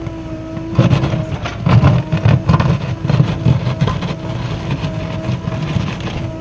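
JCB 3DX backhoe loader's diesel engine working under load, getting louder about a second in, with irregular knocks and clatter over a steady hum.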